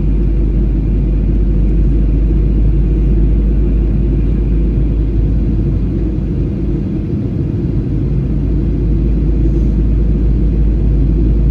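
Steady low rumble of an airliner's jet engines and airflow heard inside the passenger cabin in flight.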